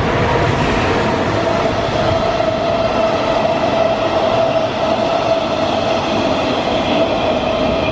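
Freight train passing close by: a loud, steady rumble of wheels on the rails with a steady whining tone held over it.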